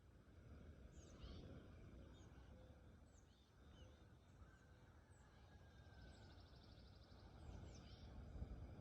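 Faint birdsong from several birds: scattered short, high chirps and a rapid trill a little past the middle, over a low rumble.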